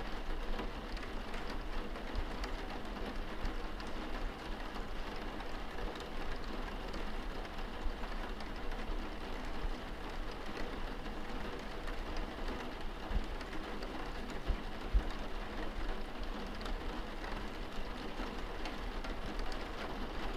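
Rain heard from indoors against a window: a steady patter of drops on the glass, with a few louder low hits, the loudest about two-thirds of the way through.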